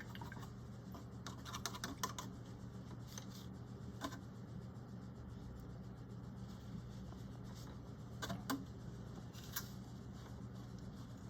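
Faint, scattered small clicks and light taps of a paintbrush being cleaned off, over a steady low hum.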